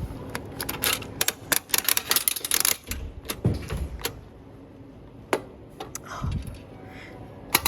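A rapid run of sharp clicks and clatters, like small hard objects being handled, then a few scattered clicks near the end.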